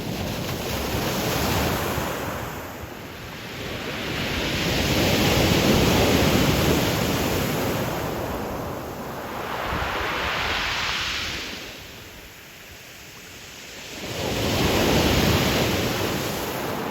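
Ocean waves breaking on Qixingtan's pebble beach, surging and receding in four swells a few seconds apart, each followed by a rushing hiss.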